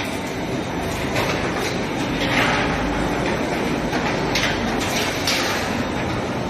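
Continuous charcoal carbonization furnace line running: a steady mechanical rumble with a few short, higher-pitched metallic scrapes or squeals scattered through it.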